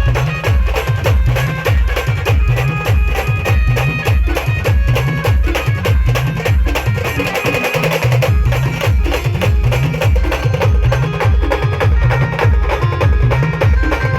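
Loud band-party music: a heavy, fast-repeating bass beat with dense drumming and a sustained melody above it.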